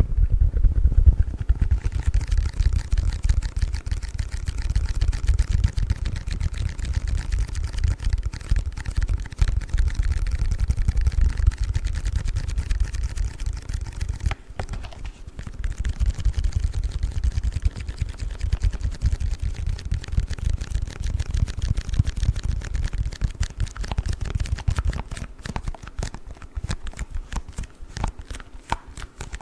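Close-miked hands handling a play foam package: a dense, rapid run of small taps and scratches with a heavy low thudding. It breaks off briefly about halfway, and the taps turn sparser and sharper near the end.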